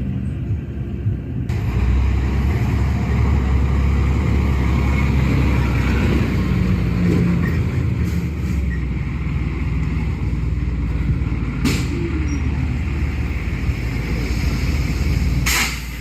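Fire truck's diesel engine running with a steady low rumble, louder from about a second and a half in. Two short hisses come through, one about twelve seconds in and one near the end.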